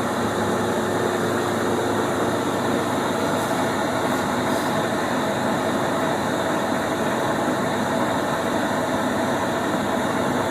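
1974 Lodge & Shipley Superturn engine lathe running steadily, its 40 hp motor and headstock gearing making a constant hum with a few steady tones, while the carriage travels under longitudinal power feed.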